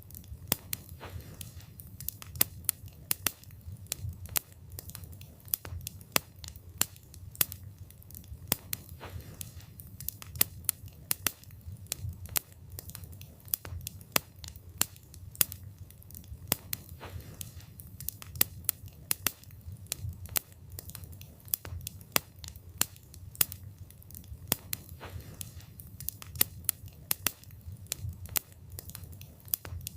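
Wood fire burning with frequent sharp crackles and pops, several a second at irregular intervals, over a low rumble of the flames.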